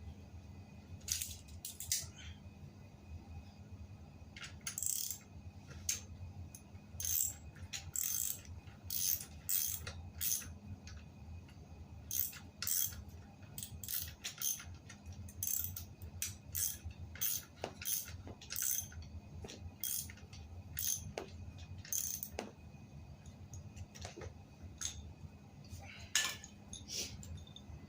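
Irregular sharp metallic clicks and clinks, a few a second, from hand work on a bicycle's wheel and parts, over a steady low hum.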